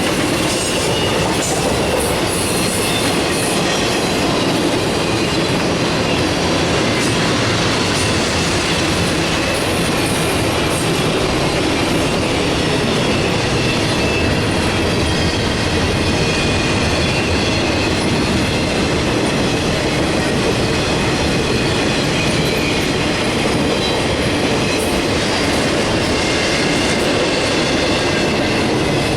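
Westbound CSX container train rolling past, a steady loud rumble and rattle of freight cars on the rails with a faint high wheel squeal.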